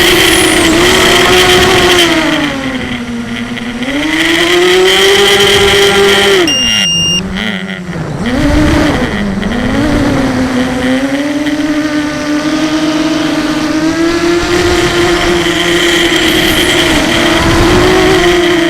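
Mini quadcopter's brushless motors and propellers whining, the pitch rising and falling with the throttle, with a deep drop about seven to nine seconds in. Under it runs the noise of a Sunnysky 2204 motor whose bearing has shelled out.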